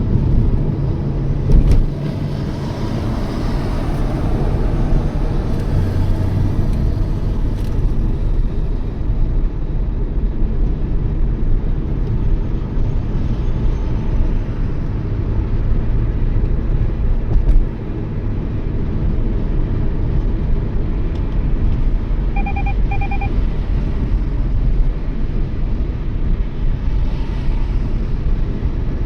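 Toyota Yaris driving at speed, its tyre and engine noise a steady low rumble, with a louder bump near the start and another about two-thirds of the way in. A quick run of short electronic beeps sounds shortly after the second bump.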